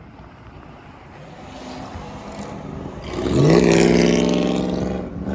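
A vehicle engine revs up and holds at high revs. It grows louder from about a second in, comes in loudest about three seconds in with a short upward glide in pitch, holds steady for about two seconds, then eases off near the end.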